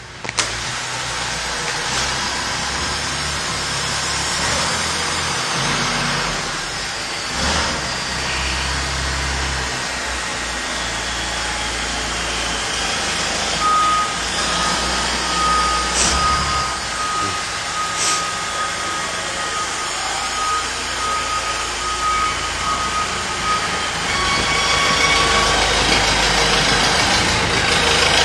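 A heavy vehicle's diesel-type engine running, with a backup alarm beeping in a steady repeated pattern for about ten seconds midway, the sign of the machine reversing. A few sharp knocks come through along the way.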